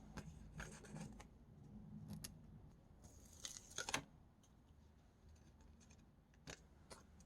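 Faint rustling and scraping of stickers and paper being handled and peeled, with a louder scratchy scrape about three seconds in and a couple of soft ticks near the end.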